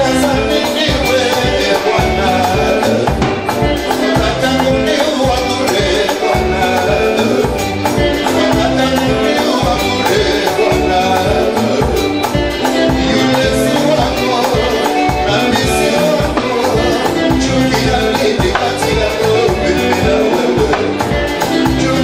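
A live fusion band playing upbeat dance music with a steady beat.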